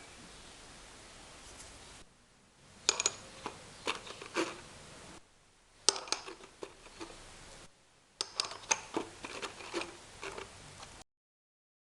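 Sharp clicks and metallic clinks of tools and engine parts being handled, in three short stretches broken by abrupt cuts, after a couple of seconds of faint hiss; the sound drops to dead silence near the end.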